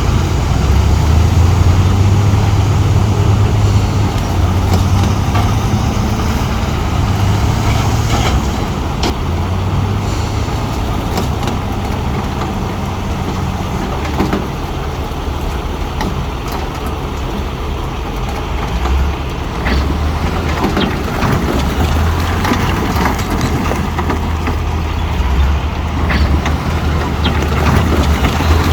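Heavy diesel bulldozer engine running and working, its note swelling and easing several times as the load changes, with scattered clanks of steel tracks and stone.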